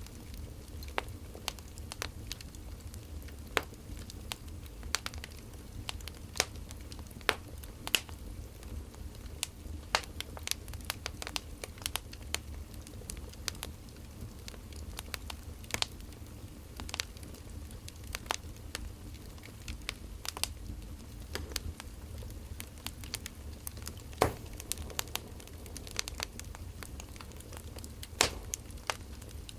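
Wood fire crackling: irregular sharp pops and snaps, a few of them louder, over a low steady rumble.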